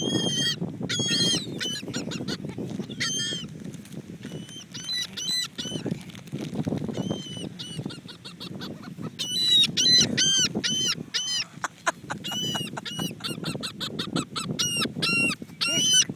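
Seagulls calling over and over in short, harsh, overlapping squawks, thickest about nine to eleven seconds in, over a steady low rumble.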